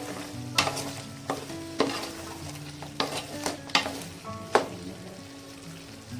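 A spoon knocking and scraping against a pot while chicken curry is stirred as it cooks, with the sizzle of the masala in the pan. There are sharp metal clicks several times, about every half second to second, stopping a little after halfway.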